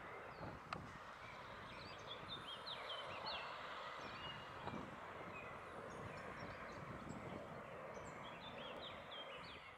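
Small birds chirping, many short high calls scattered throughout, over a faint steady outdoor background hiss.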